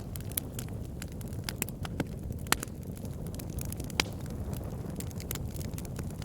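Wood fire burning in a fireplace: a low steady rumble with frequent sharp crackles and pops of burning wood. The loudest pops come about two and a half and four seconds in.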